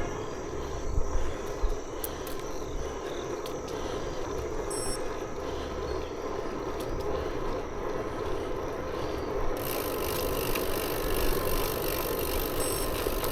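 Steady wind and tyre noise from a moving bicycle, with a couple of small knocks about a second in.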